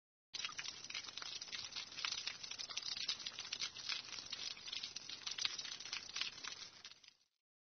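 Dense, crisp crackling made of many fine clicks, starting abruptly just after the start and cutting off suddenly about seven seconds in.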